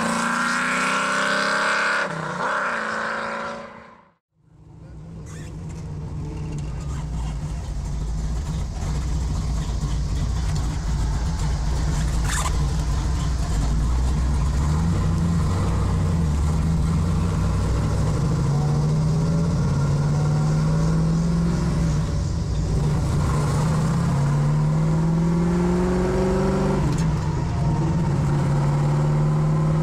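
First-generation Chevrolet Camaro SS's V8 running while the car is driven. It is heard from outside as the car pulls away, cuts out about four seconds in, then comes back as a steady engine note from inside the cabin that rises in pitch several times while accelerating.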